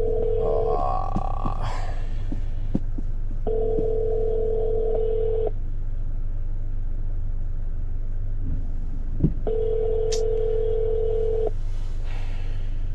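Telephone ringback tone over a phone's speaker: the end of one ring, then two more steady rings of about two seconds each, every six seconds, while the call goes unanswered. A low steady hum runs underneath.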